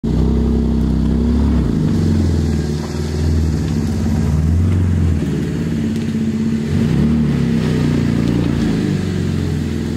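Engine of a 2012 Holden Commodore VE running at low revs as the car moves slowly backwards, the pitch shifting slightly a few times.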